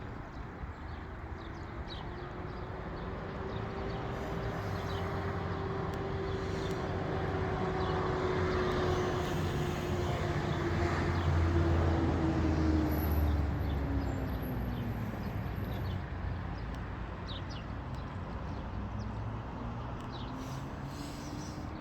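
A car drives past, growing louder to about halfway through and then fading, its engine tone dropping in pitch as it goes by; another vehicle can be heard approaching near the end. Short bird chirps sound over a steady rushing background.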